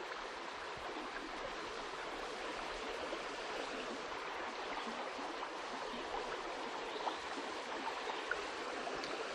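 Small trout stream running, a steady, even rush of flowing water.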